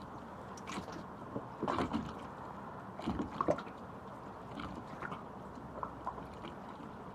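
Water sloshing and splashing in a few short irregular bursts over a steady background hiss.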